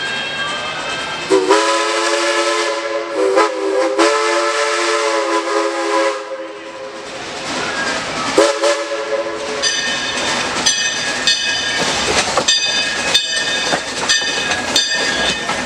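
Steam locomotive's chime whistle sounding one long blast, then a short one, followed by the locomotive bell ringing about twice a second over the running noise of the train.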